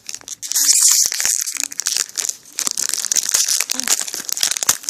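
Foil Yu-Gi-Oh! booster pack wrapper being handled and torn open, a dense crinkling crackle that is loudest in the first second or two.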